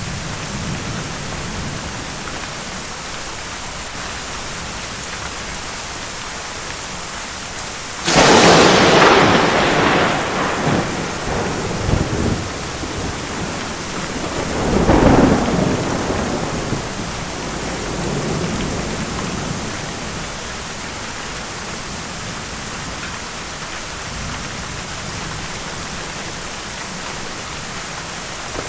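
Steady heavy rain with thunder: a sudden sharp crack of nearby thunder about eight seconds in that rolls off over a few seconds, then a second, lower rumble about fifteen seconds in.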